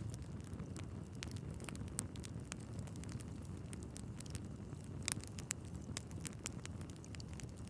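Wood fire burning in a fireplace: a steady low rumble of flames under frequent sharp crackles and pops from the logs, with a louder pop about two seconds in and another about five seconds in.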